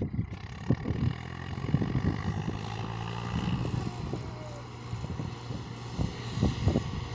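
Diesel tractor engines running steadily, pulling against each other in a tractor tug-of-war, with irregular low thumps over the drone.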